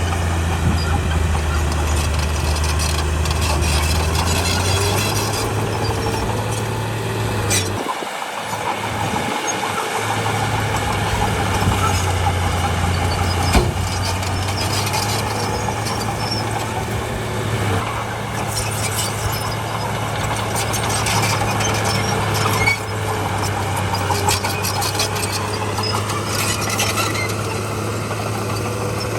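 Heavy diesel earthmoving machinery running steadily, with scattered squeals and clanks. Its low engine note changes pitch about five seconds in and drops away briefly about eight seconds in.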